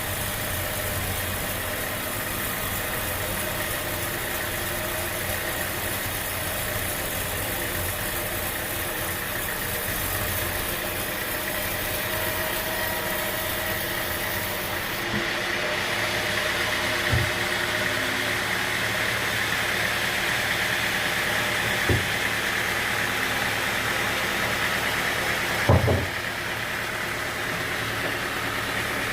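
Sawmill machinery running steadily, with a few short knocks in the second half, the loudest a little before the end.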